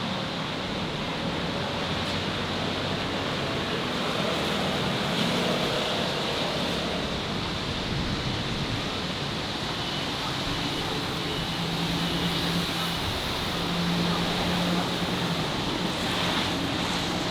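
Steady roar of city street traffic, with the hum of passing engines coming and going.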